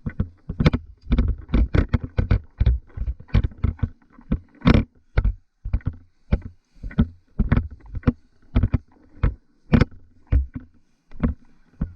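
Footsteps at a walking pace, about two steps a second, each a short scuffing thud close to the microphone.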